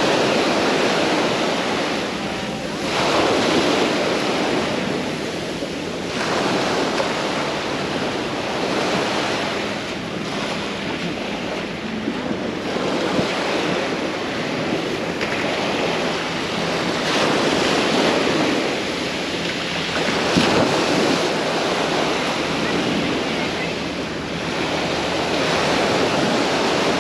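Mediterranean waves breaking on the beach, the surf swelling and falling back every three to four seconds.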